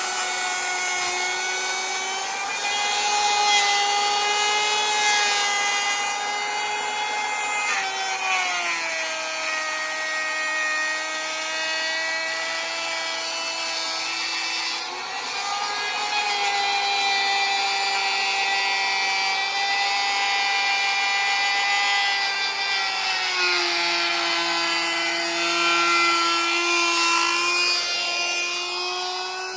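Wood router with a bearing-guided trim bit running with a steady high whine. The pitch sags about 8 seconds in and again about 23 seconds in, each time for some six seconds, as the bit cuts into the wood under load.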